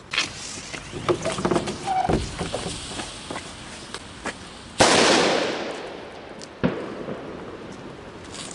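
New Year's Eve firecrackers and fireworks going off. There are scattered pops and cracks, then a loud bang about five seconds in that echoes away over a couple of seconds, and another sharp bang shortly after.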